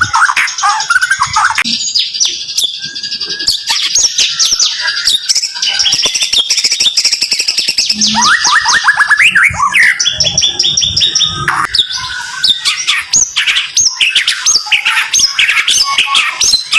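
White-rumped shama (murai batu) singing rapid, tightly packed runs of short, sharp, high notes, the fast 'tembakan' bursts prized in a murai's song, with quick sweeping chirps in between.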